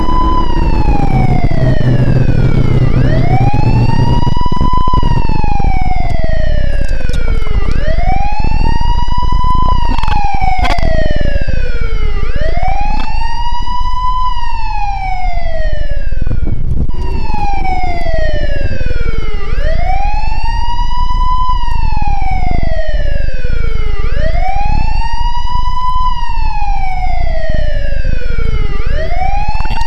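Police-style wail siren sounding continuously, its pitch sweeping up quickly and falling more slowly about every five seconds, over the low rumble of a car driving.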